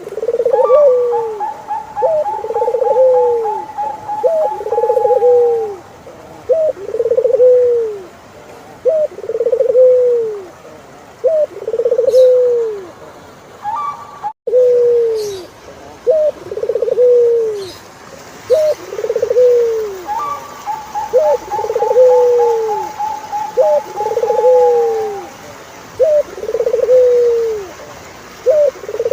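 Turtle dove cooing over and over, each coo a short rising note followed by a longer arched one, about one every second and a half. Twice a long, even trill runs above it for several seconds.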